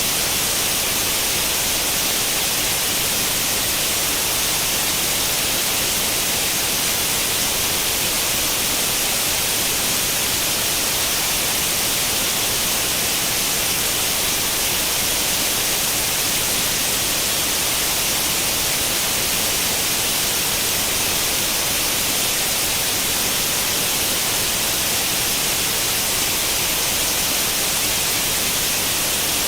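Steady white-noise hiss in the manner of an old tube television's static with no channel tuned in, unchanging throughout and strongest in the high range.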